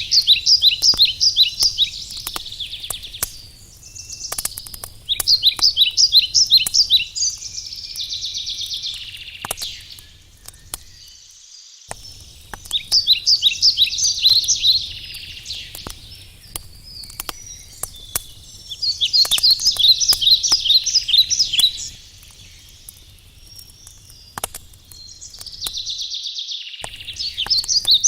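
A songbird repeating a short song of rapid trilled notes about every six seconds, over a crackling wood fire with scattered sharp pops and a steady low rumble.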